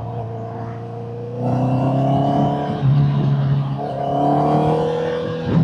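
Honda CBR650R inline-four engine through a Vandemon aftermarket exhaust, running steadily and then pulling harder about a second and a half in, rising in pitch, dipping briefly near the middle and rising again.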